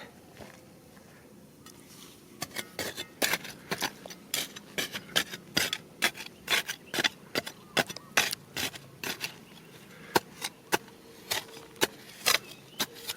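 Stones and gravel being worked by hand or with a tool: a quiet start, then from about two and a half seconds in a run of irregular sharp clicks and scrapes, two or three a second, some louder than others.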